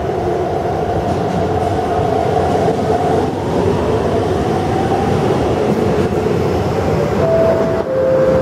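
MTR East Rail Line R-train, an electric multiple unit, running past the platform and pulling away, with a steady rumble of wheels and motors and a faint drifting whine. Near the end come three short steady tones, each lower than the last.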